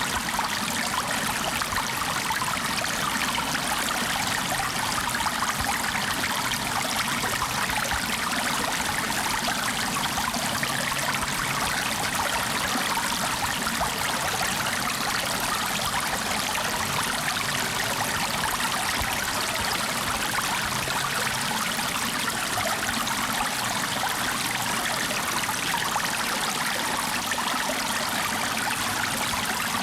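Steady running water, like a stream flowing, with a constant hiss and no breaks or changes.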